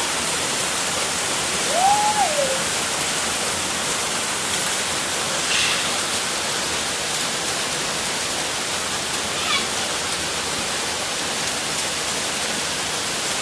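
Steady rushing hiss, even across the whole stretch, with one short tone that rises and falls about two seconds in and a couple of faint high chirps later on.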